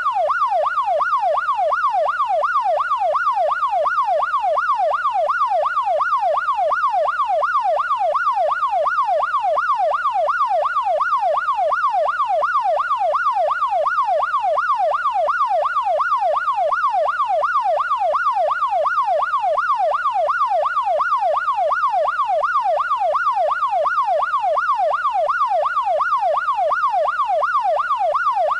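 Electronic siren in a fast, even yelp, its pitch sweeping up and down about twice a second, with no change in pace throughout.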